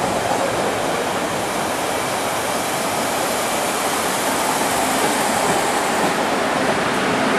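CTA Orange Line rapid-transit train pulling into an elevated station: a steady rush of wheel and rail noise that grows a little louder as the cars slide past the platform.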